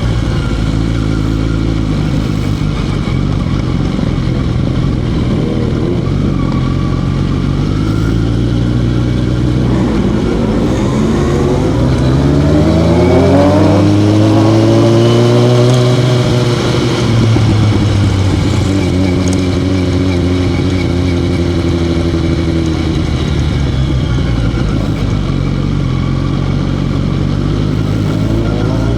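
Motorcycle engine running under changing throttle. Its pitch climbs steadily to a high, loudest point about halfway through, then drops back and rises again near the end.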